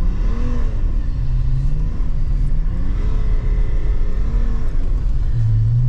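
BMW E39's diesel engine heard from inside the cabin, its revs rising and falling several times over a steady low rumble as the car is throttled through drifts on a snowy road.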